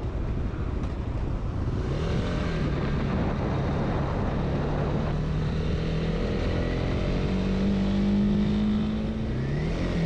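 Honda CB300R's single-cylinder engine running under way, its pitch holding steady and then stepping up and down with the throttle, over a steady rushing noise of wind and road.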